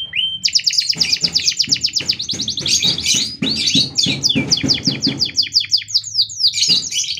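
Domestic canary singing a long, loud song of rapid trills and quick repeated sweeping notes, with a brief pause a little after six seconds.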